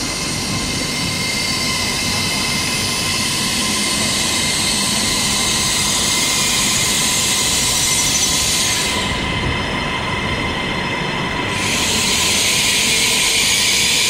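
A CRH6F-A electric multiple-unit train moving along the platform track: a steady rolling rail noise and hiss with a constant high whine, growing a little louder near the end.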